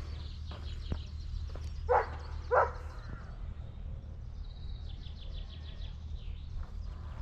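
A small songbird singing high, rapid trills over a steady low rumble and light footsteps, with two loud short calls or knocks about two seconds in.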